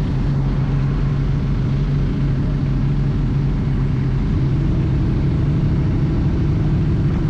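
Kawasaki ZX-6R's inline-four engine running at a steady, even pitch.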